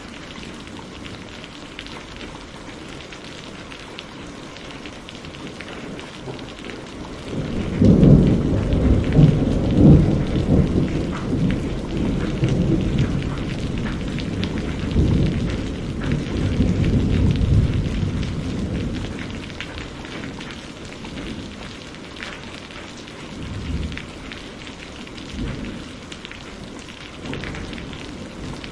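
Steady rain falling, with a long roll of thunder that breaks in about a quarter of the way through, loudest in its first few seconds, then rumbles away over roughly ten seconds; fainter rumbles follow near the end.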